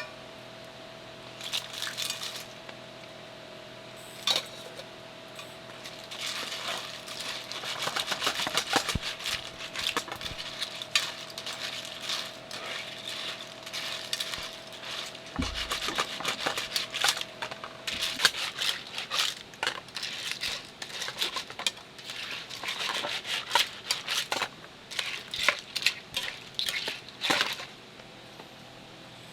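Camping cookware and metal utensils being handled, with irregular clinks, taps and clatter, busiest in the middle and again towards the end.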